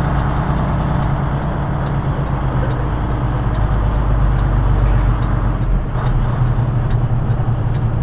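Semi truck's diesel engine running at low speed, heard from inside the cab, a steady low hum. A faint, even ticking of about three clicks a second runs over it.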